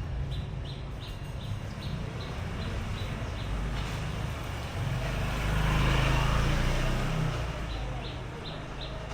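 Street traffic: a motor vehicle's engine passing close, swelling to its loudest midway and then fading, with short high chirps repeating about three times a second.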